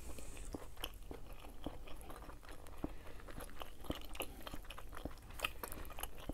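Close-miked chewing of a mouthful of food: many small, irregular mouth clicks.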